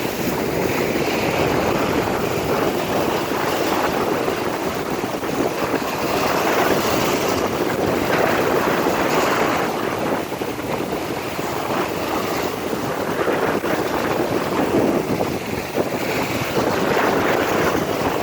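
Rough sea: waves surging and breaking continuously, swelling and easing, with wind buffeting the microphone.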